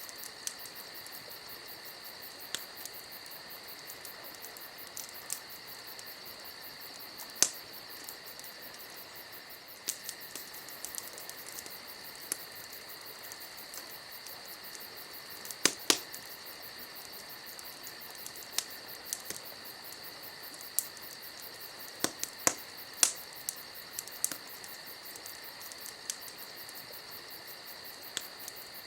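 Wood fire crackling, with irregular sharp pops: the loudest come about halfway through and in a cluster past the two-thirds mark. Underneath runs a steady high-pitched chirring hiss.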